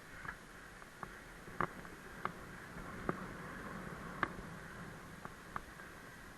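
Bicycle riding over rough ground: a steady rolling hiss with irregular sharp clicks and rattles, about eight of them.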